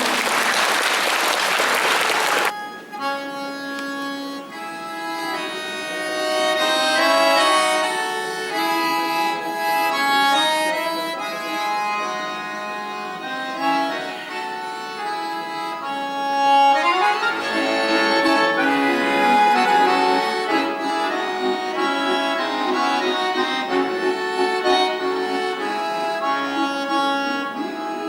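Accordion playing a melody over sustained chords, opening with a burst of applause for the first couple of seconds; the playing grows fuller and louder about two-thirds of the way through.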